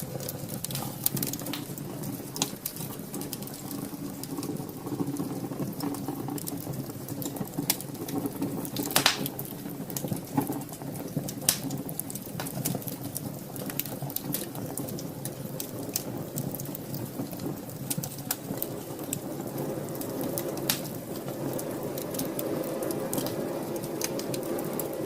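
Wood fire in a fireplace crackling: irregular sharp pops and snaps over a steady low rush, with one louder pop about nine seconds in.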